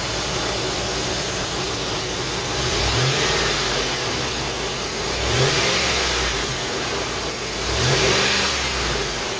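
Ford 4.6 V8 engine of a 2000 F-150 idling and being revved three times, each rev a quick rise and fall in pitch, to push trapped air out of the newly refilled cooling system.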